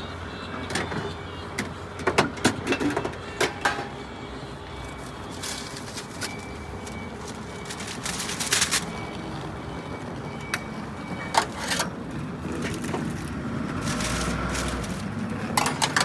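Drink being made at a coffee van counter: scattered clicks and knocks of cups and equipment, a short hiss about eight and a half seconds in, and a steady hiss building near the end.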